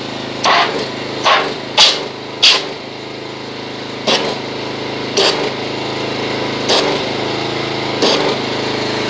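Pressure washer running steadily while its spray is fired into a wash bucket in repeated short blasts, about eight in all, whipping the car soap in the water into suds.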